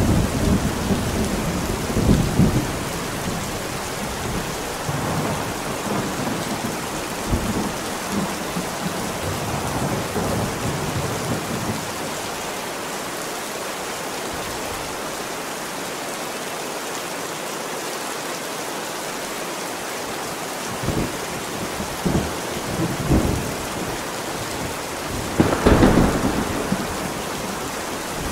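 Heavy rain falling steadily with rolls of thunder: rumbles in the first few seconds, a calmer stretch of rain alone midway, then more thunder, the loudest crack and rumble near the end.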